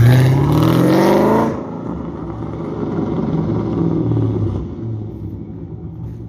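2010 Camaro SS's 6.2-litre V8 accelerating, its revs rising for about a second and a half before falling away suddenly to a lower, steady rumble.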